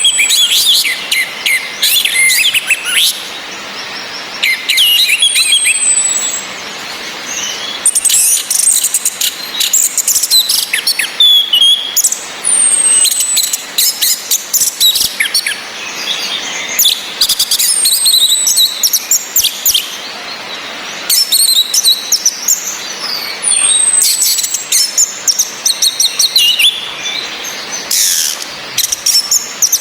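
Orange-headed thrushes (anis merah) calling and singing: a high falling whistle repeats about every five to six seconds among bursts of rapid, chattery notes.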